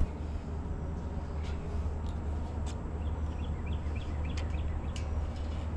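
Steady low hum, with a quick run of small bird chirps about halfway through and a few light clicks.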